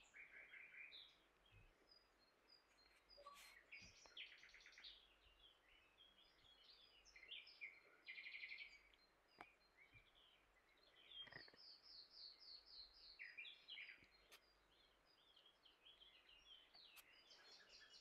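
Faint songbirds chirping and trilling, with short call notes scattered throughout and a quick run of repeated notes in the middle. A few soft, faint clicks.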